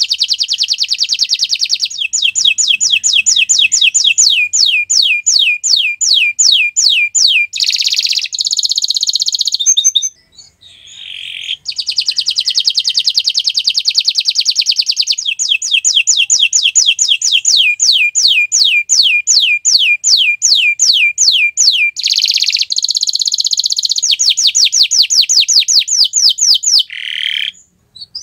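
Domestic canary singing a long song: runs of quick repeated sweeping notes, three or four a second, alternate with fast buzzy trills. There are short breaks about ten seconds in and near the end.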